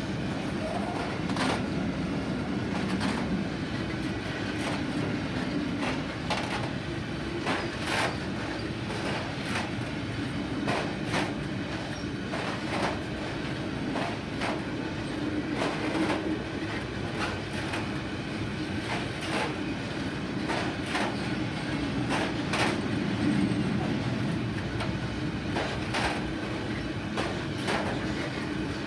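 Iron ore hopper wagons of a long freight train rolling past close by: a steady rumble of steel wheels on rail. Sharp clicks come about every second and a half, some in quick pairs, as the wheelsets pass over the rail joints.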